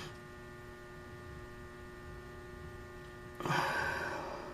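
Steady electrical hum of freshly powered elevator machine-room equipment, made of several steady tones, just after the mainline switch is closed. A short breathy hiss comes in about three and a half seconds in and fades.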